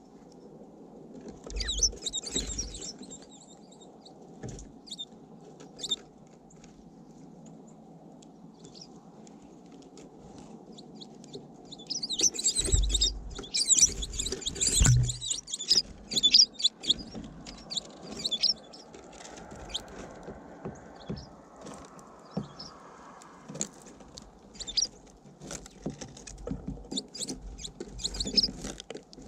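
Small birds at a feeder close to the microphone: bursts of high chirps with sharp clicks and low thumps, busiest about two seconds in, again from about twelve to seventeen seconds, and near the end.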